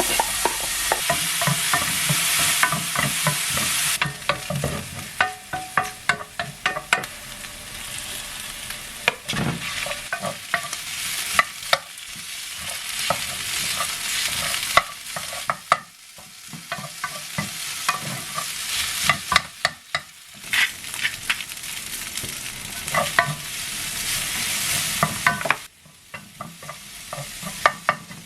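Food sizzling in a frying pan while a utensil stirs and scrapes it, with frequent short clicks of the utensil against the pan. The sizzle is loudest in the first few seconds.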